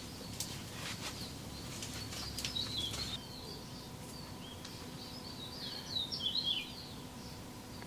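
Small birds chirping, a cluster of calls about two and a half seconds in and a louder run of chirps about six seconds in, with a few sharp clicks and a low hum in the first three seconds.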